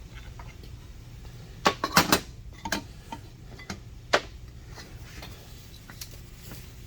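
Metal clinks and taps of keyway broach tooling being handled: a cluster of sharp clinks about two seconds in, a few lighter ones after, and a loud single clink just after four seconds, over a steady low hum.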